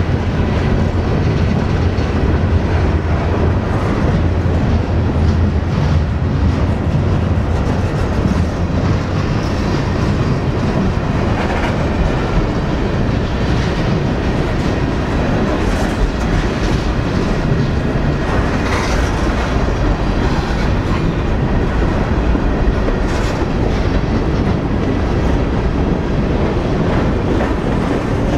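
Freight train cars, gondolas and tank cars, rolling past at close range: a steady rumble of steel wheels on rail, with scattered clicks as the wheels cross rail joints.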